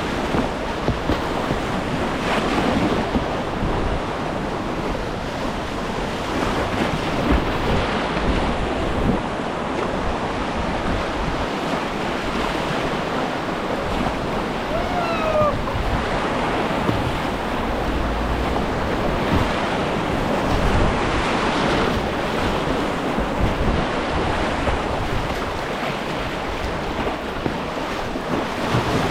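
Whitewater rushing and splashing around a kayak running rapids, with wind buffeting the microphone. A short falling whistle-like sound comes about halfway through.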